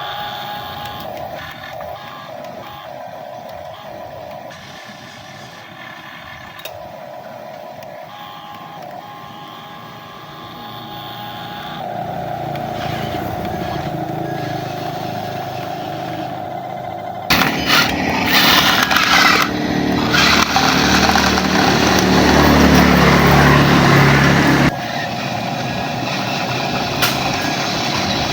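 Small electric motors of a radio-controlled excavator and dump truck running with a steady whine that swells and fades as the machines work. About two-thirds of the way through, a louder rough, rushing noise lasts for about seven seconds, then cuts off suddenly.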